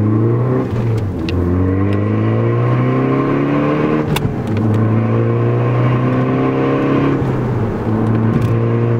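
Ford Focus ST's turbocharged four-cylinder with a modified exhaust accelerating through the gears, heard from inside the cabin. The engine pitch climbs in each gear and drops back at upshifts about one, four and seven seconds in.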